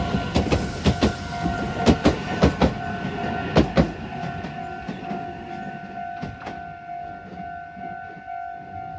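Meitetsu train passing over a level crossing, its wheels clacking over the rail joints in quick pairs that thin out about four seconds in. Through it all the crossing's warning bell rings with a steady electronic tone, heard more plainly once the train has gone by.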